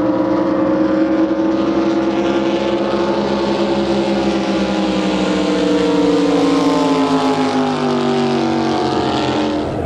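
Drag boat engine running steadily, its pitch easing down slowly over the last few seconds.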